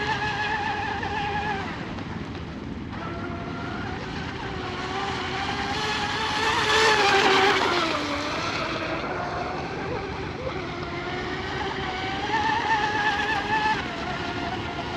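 RC hydroplane's water-cooled 3660 brushless electric motor, about 2070 kV on a 4S pack, whining at high throttle over the hiss of spray as the boat runs laps. It grows loudest about halfway through, then drops in pitch and fades as the boat goes past, and swells again near the end.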